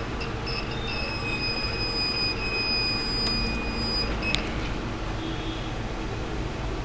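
Multimeter continuity buzzer beeping as the probes test the phone's ringer speaker. A few short broken beeps come first, then one steady high beep is held for about four seconds and ends with a click. A steady beep shows the speaker coil conducts.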